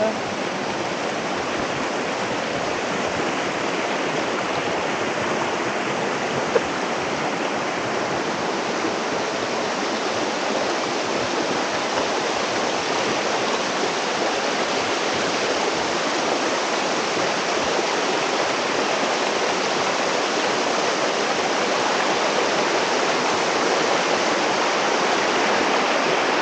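Small waterfall and stream rushing steadily, a constant hiss of falling water that grows slightly louder toward the end. A single short tick about six and a half seconds in.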